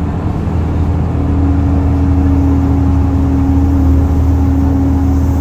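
Isuzu Erga city bus's turbo diesel engine working hard under acceleration, heard inside the cabin from the rear seat, with a steady drone that comes in about a second in.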